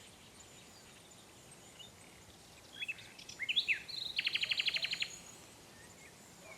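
Songbird singing: a few short, high chirps about three seconds in, then a quick trill of about ten notes lasting roughly a second, over faint outdoor background noise.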